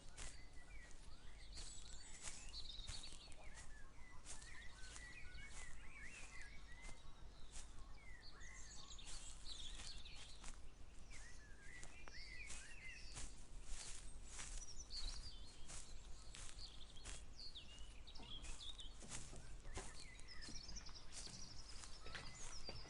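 Footsteps at a walking pace, about two a second, with several birds chirping and singing around.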